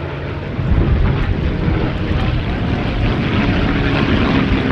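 Merlin V12 piston engine of a P-51 Mustang in a display flypast, growing louder about a second in, then holding steady with a sustained engine note.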